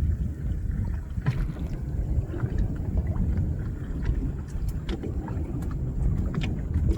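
A fishing boat at sea: a low, steady rumble with scattered light knocks and clicks.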